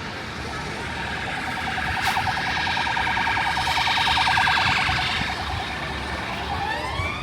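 Emergency vehicle siren on a city street: a fast pulsing yelp that grows louder to a peak about four seconds in, then switches to a rising wail near the end. Steady low street noise underneath.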